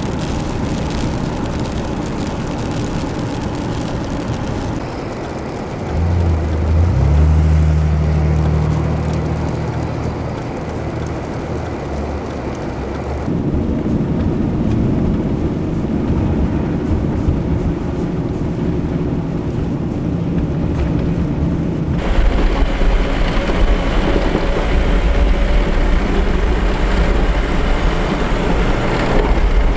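Vehicles in snowy traffic: engine and tyre noise with wind on the microphone, across several abruptly cut shots. Partway through, an engine holds a strong low hum that steps up in pitch about seven seconds in.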